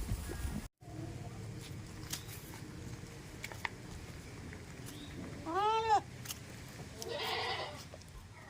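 A goat bleats twice. The first is a clear call that rises and falls in pitch about five and a half seconds in; the second, rougher call comes a second later.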